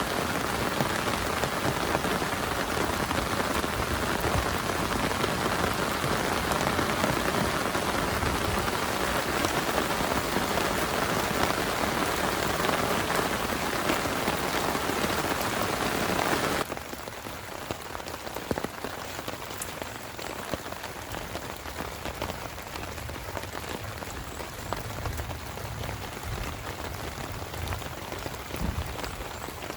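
Heavy rain falling steadily as a dense, even hiss. About seventeen seconds in it cuts abruptly to quieter, lighter-sounding rain.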